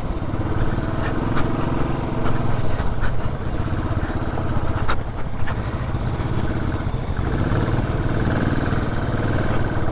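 Benelli TRK 502 motorcycle's parallel-twin engine running steadily.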